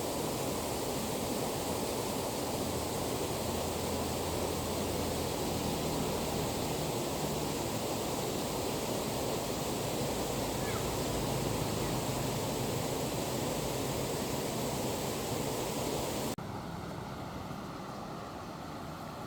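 Fast-flowing stream water rushing steadily. About 16 seconds in, it cuts off abruptly to a quieter background with a faint low hum.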